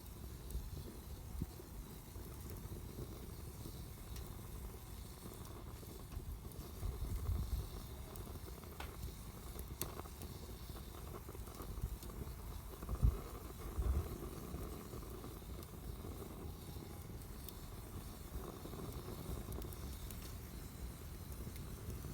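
Wood campfire burning, with scattered crackles and pops over a steady low rumble and a few duller thuds.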